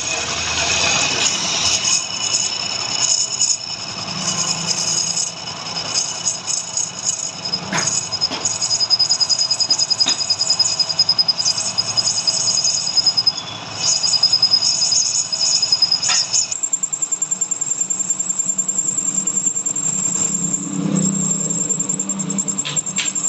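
Metal-cutting lathe running, with a steady high-pitched squeal from the tool cutting the work; the squeal changes character about two-thirds of the way in.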